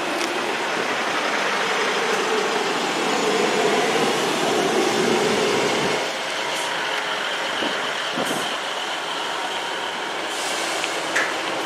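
Passenger train running past along the platform, a steady rumble of wheels on rails that grows louder in the first half and drops off about halfway through.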